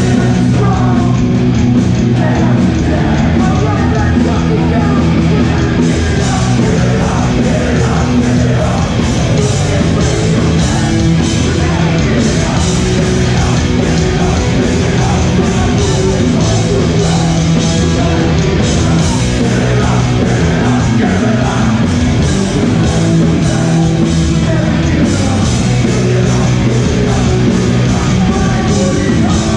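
Hardcore punk band playing live: loud distorted guitars, bass and fast drums with shouted vocals.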